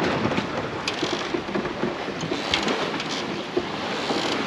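Wind and sea noise aboard a sailboat under way: a steady rushing with a few short, sharp sounds.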